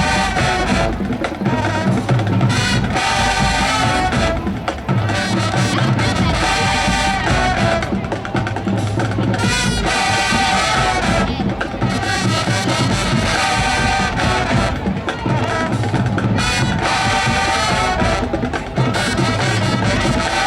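Marching band playing, brass instruments carrying the tune over drums.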